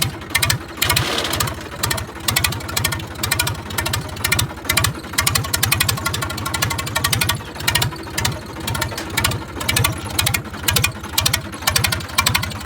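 Massey Ferguson 1035 DI three-cylinder diesel tractor engine running with its silencer removed, the open exhaust giving a loud, even train of pulses with a regular swell in loudness.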